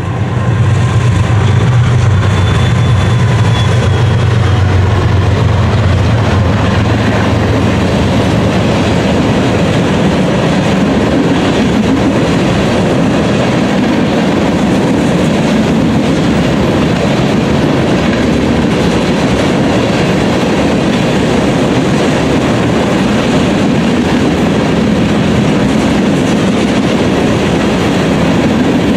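Freight train of empty crude-oil tank cars passing close by. For the first nine seconds or so the diesel locomotives drone as they go by; after that the empty tank cars roll past with a steady rumble and wheel clickety-clack over the rail joints.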